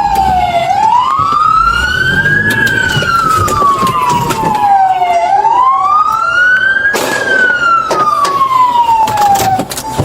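Police siren wailing, its pitch sliding slowly up and down in long sweeps of a couple of seconds each, then cutting off near the end. A sharp knock sounds about seven seconds in.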